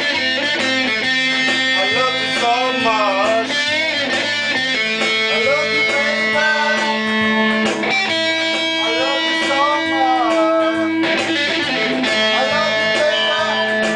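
Guitar music: a lead line with bent, wavering notes over held lower notes, playing steadily.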